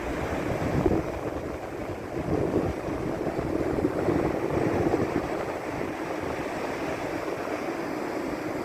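Sea waves washing onto the beach, swelling a couple of seconds in, with wind buffeting the microphone.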